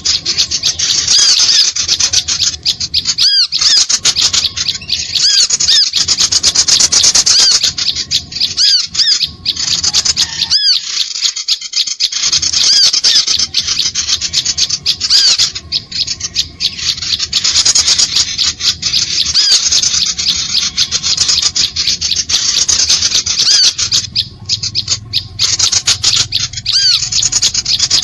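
Small songbirds' calls used as a bird-luring track: a loud, unbroken stream of rapid high chips and short arching notes with only brief gaps.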